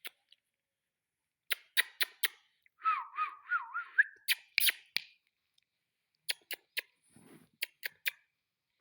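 Rose-ringed (Indian ringneck) parakeet giving a short warbling, wavering whistle, set among quick runs of three or four sharp clicks.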